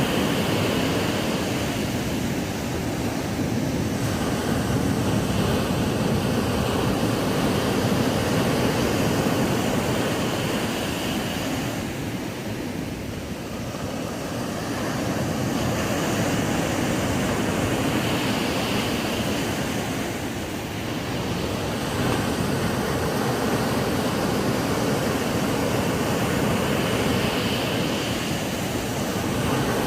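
Ocean waves breaking and washing up on a sandy beach: a steady surf wash that swells and eases every eight seconds or so.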